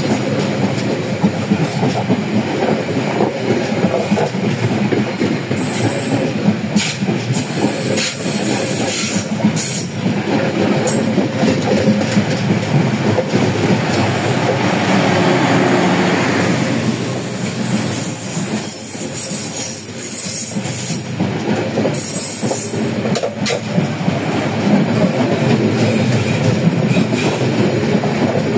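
Passenger train coaches rolling past close by, with a steady rumble and wheels clattering over rail joints as the train enters the station. The sound swells a little louder about halfway through.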